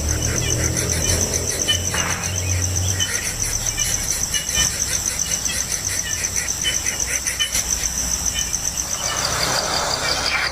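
Insects chirring: a steady, rapidly pulsing high trill, with scattered short chirps over it. A low rumble lies underneath for the first few seconds.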